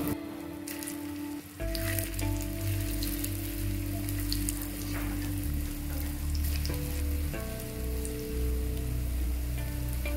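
Vegetable koftas frying in shallow hot oil in a nonstick pan, a steady sizzle with many small crackles as more balls are laid in. Background music plays underneath.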